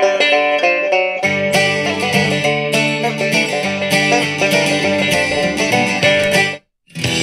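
Bluegrass-style plucked-string music, banjo and guitar, playing from the XHDATA D-608WB radio's speaker in MP3 player mode; fuller, lower accompaniment joins about a second in. Near the end the track cuts off suddenly, and after a brief silence the next track starts.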